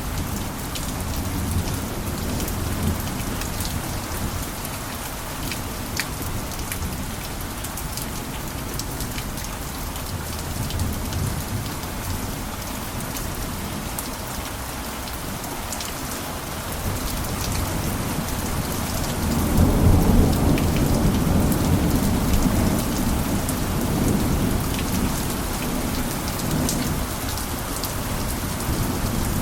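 Steady rain with scattered sharp drop ticks. A low rumble of thunder builds about two-thirds of the way in and slowly fades.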